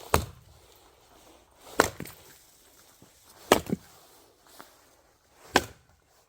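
An axe splitting firewood: four sharp chopping strikes about two seconds apart, two of them followed by a quick lighter knock.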